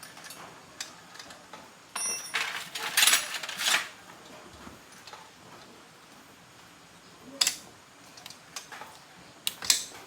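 Metal hand tools and motorbike parts clinking and scraping during repair work. A louder stretch of rattling and scraping starts about two seconds in and lasts about two seconds. A few sharp metallic clicks follow later.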